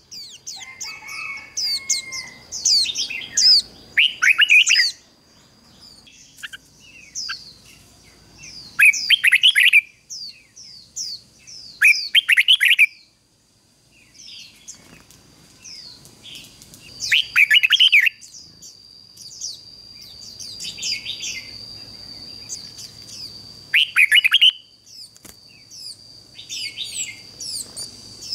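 Red-whiskered bulbul singing: short, bright warbling phrases repeated every few seconds, from a decoy bird calling wild bulbuls. A steady high thin tone runs under the song through the latter half.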